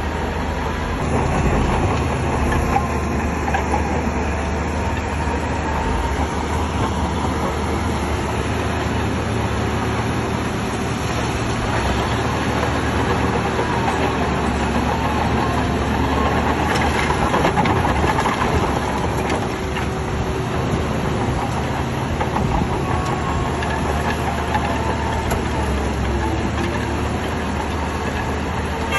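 Shantui crawler bulldozer working: the diesel engine running steadily under load with a deep rumble and the steel tracks clanking, a little louder about two-thirds of the way through.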